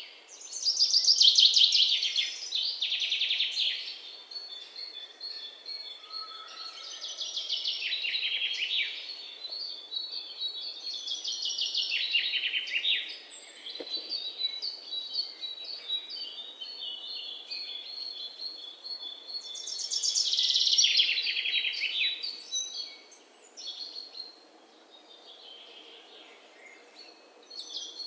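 Songbirds singing: loud, fast trilled phrases that fall in pitch come every few seconds, with thinner strings of short, high repeated chirps in between. A faint steady background hiss runs underneath.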